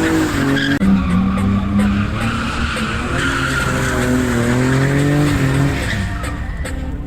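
A car drifting: its engine revving up and down under hard throttle while its tyres squeal and skid. There is a sudden break in the sound just under a second in.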